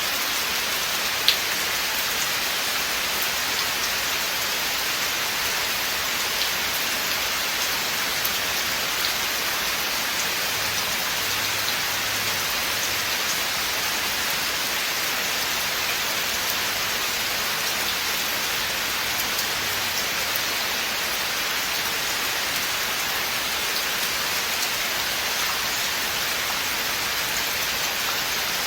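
Steady rain falling through a forest, a dense even hiss with scattered individual drops ticking, one sharper drop about a second in.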